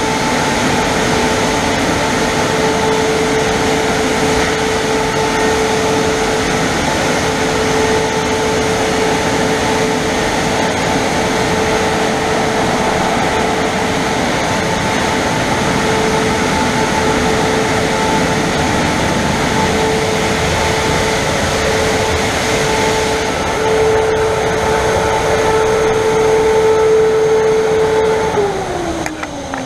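Christ Varius car wash's drying blowers running, a loud steady blowing with a strong hum, then winding down with a falling pitch near the end as they switch off.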